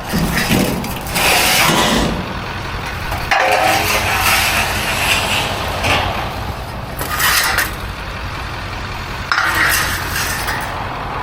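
Bags of loose metal hardware being handled, with irregular bursts of clinking and rattling over a steady low hum.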